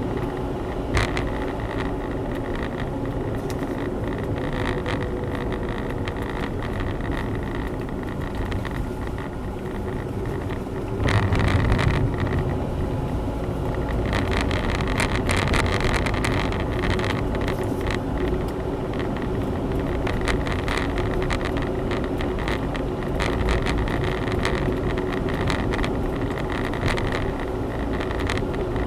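Honda Zest kei car on the move, heard from inside the cabin: steady engine and road noise from its 660 cc three-cylinder. It gets louder about eleven seconds in and stays at that level.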